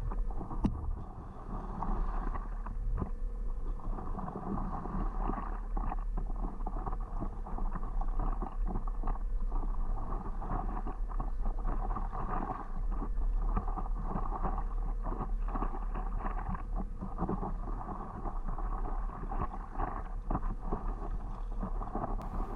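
Water splashing and sloshing around a stand-up paddleboard as it is paddled, in many short irregular splashes, with wind rumbling on the microphone.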